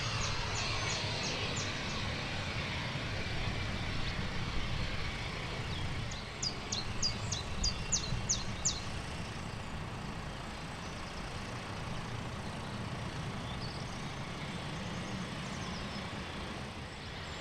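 Steady distant engine rumble, with a small bird chirping in quick runs of short high notes near the start and again about six to nine seconds in.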